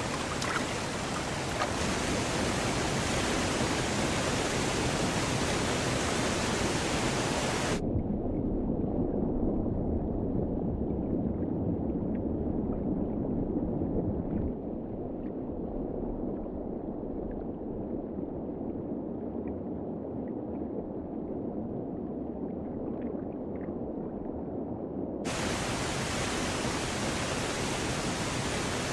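Rushing river water running over a rocky stretch. For a long middle stretch, from about 8 s to about 25 s, the sound turns muffled, with the high hiss gone and only a low rumble and a few faint ticks left. The full rushing sound returns near the end.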